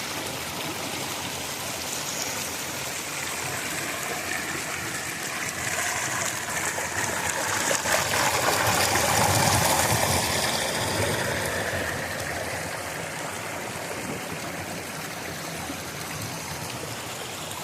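River water rushing and splashing over rocks in a steady flow, growing louder midway and then easing off.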